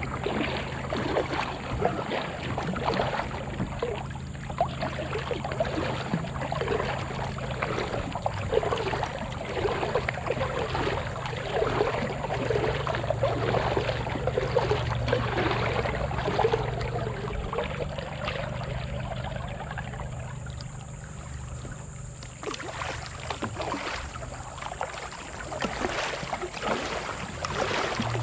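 Kayak being paddled: water sloshing and trickling along the hull, with irregular splashes and drips from the paddle strokes.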